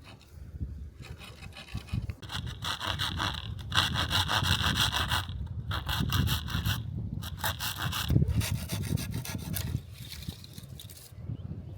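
Hand saw cutting through wood in quick, steady back-and-forth strokes, pausing briefly twice partway through.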